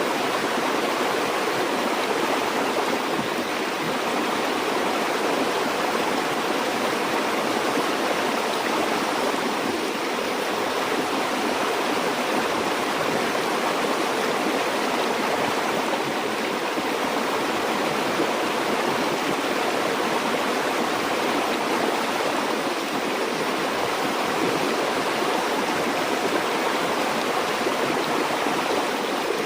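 A stream of flowing water rushing steadily and evenly, without pauses or single splashes.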